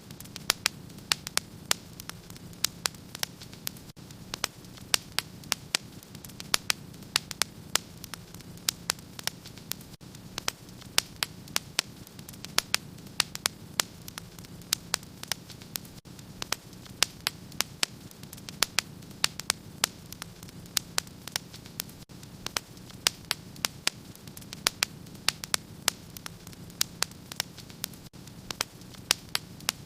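Wood fire in a fireplace crackling, with sharp irregular pops several times a second over a steady low hum.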